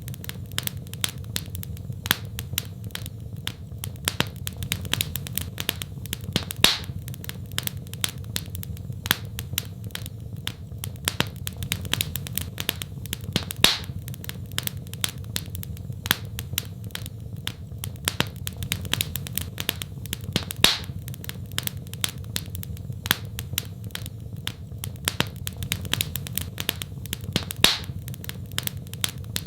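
Wood fire crackling: a dense run of small snaps with a louder pop every few seconds, over a steady low rumble.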